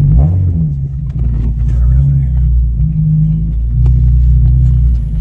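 Infiniti G37 coupe's 3.7-litre V6 engine droning steadily under way, heard from inside the cabin. The engine pitch shifts briefly just after the start, then holds steady.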